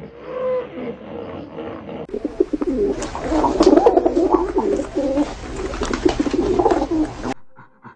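Birds cooing. About two seconds in it changes abruptly to a louder, busier stretch of many overlapping coos, which cuts off sharply near the end.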